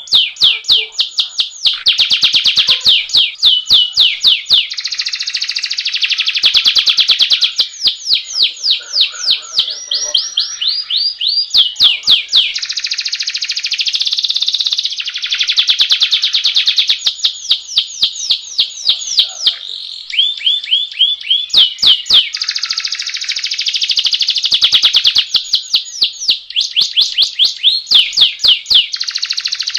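Domestic canary singing a long, unbroken rolling song: runs of rapid repeated sweeping notes alternating with dense, buzzy trills.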